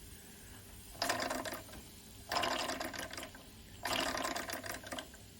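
Mamod SE1 toy steam engine chuffing and spitting steam in three short bursts of rapid clicking, each about a second long, stopping in between. With the boiler hot and under steam, the engine will not keep running.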